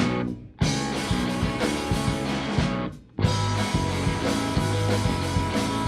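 Live rock band playing an instrumental passage with electric guitar and drums, the sound dropping almost to silence for a moment twice, about half a second in and again about three seconds in.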